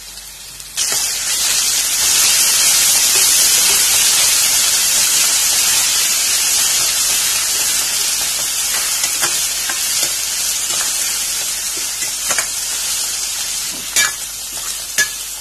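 Sliced onions and ginger-garlic paste frying in hot oil in a steel kadai, sizzling loudly. The sizzle starts suddenly about a second in and slowly eases, with a few clicks of a spatula scraping the pan as it is stirred near the end. The paste is being fried until its raw smell goes.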